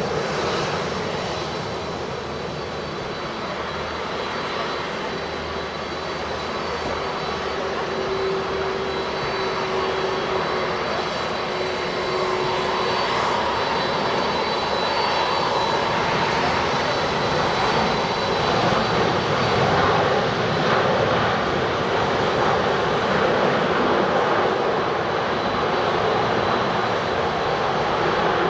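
Airbus A340-600's four Rolls-Royce Trent 556 turbofans running as the airliner comes in to land: a steady jet rush with a thin high whine, slowly growing louder.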